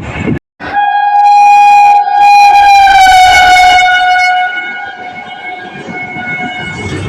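Indian Railways electric locomotive horn blowing a long, loud blast with a brief break about two seconds in. Its pitch drops slightly about three seconds in, then it fades and carries on quieter over the rumble of the train.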